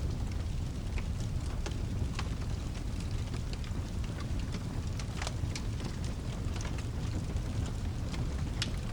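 Fireplace fire crackling, with irregular sharp pops, over a steady low rumble and hiss of rain.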